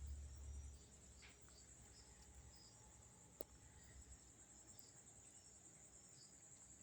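Faint, steady high-pitched chirring of night insects, with a single sharp click about three and a half seconds in.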